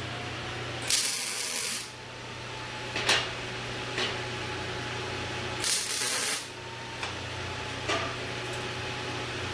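Two short hissing spray bursts, each just under a second and about five seconds apart, with a few light clicks between them over a steady low hum.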